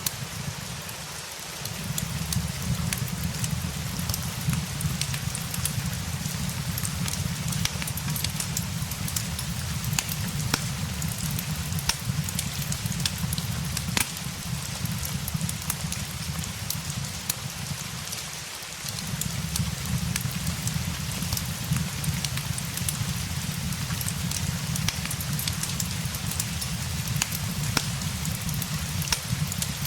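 Steady rain with a crackling fireplace mixed in, scattered sharp pops and ticks over a constant hiss. A low rumble underneath drops out briefly twice.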